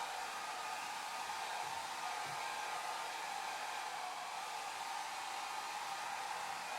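Hair dryer running steadily: an even, unchanging rush of blown air with a hum-like band near the middle of the range.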